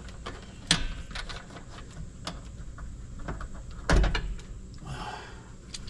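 Scattered clicks, knocks and rattles of hands working wires at an electrical panel, with two louder knocks, one about a second in and one about four seconds in.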